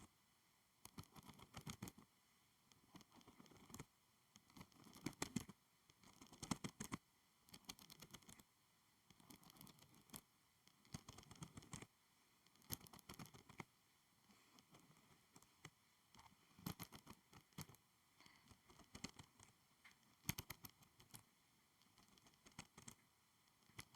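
Quiet, close tapping and scratching on school supplies, in irregular clusters of small clicks every second or two with near-silent gaps between.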